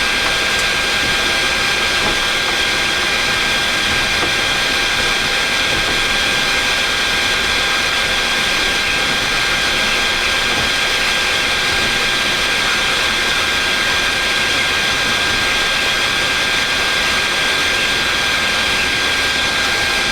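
Boeing 737 MAX's remaining CFM LEAP-1B engine running at idle, heard from the flight deck as a steady, even rush with one constant high-pitched whine.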